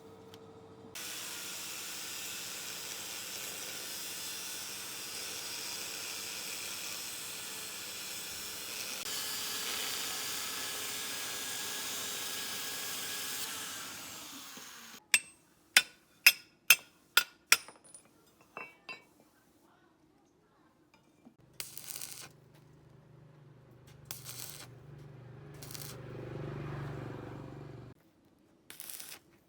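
Workshop metalwork sounds: a steady hiss for about thirteen seconds that fades away, then a quick run of about seven sharp metallic knocks, scattered clicks, and a low steady hum near the end.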